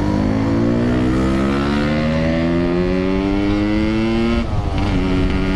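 Yamaha RX-King 135cc two-stroke single-cylinder motorcycle engine accelerating, its pitch climbing steadily for about four seconds. Near the end the revs drop sharply at a gear change and the engine carries on at a lower pitch.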